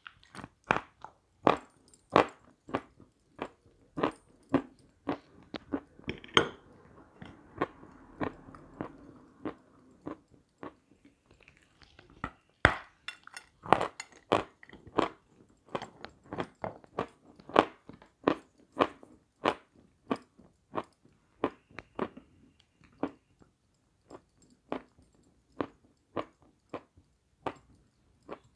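Crunching and chewing of lumps of Sevryukovo natural chalk, sharp crunches about twice a second with a few louder bites, and a softer crumbling sound for a few seconds in the early part.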